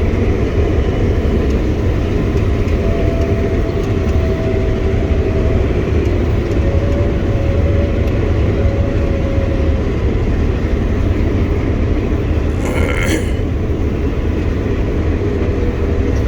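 Combine harvester running steadily during harvest, heard from inside its cab as a loud, even, low-pitched machine drone. About 13 seconds in there is one brief, sharper, higher-pitched noise.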